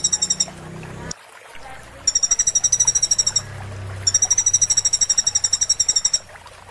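A sunbird (kolibri) singing a fast, high-pitched trill of evenly repeated notes, about a dozen a second, in three bursts: a short one ending just after the start, one about two seconds in, and a longer one from about four seconds in.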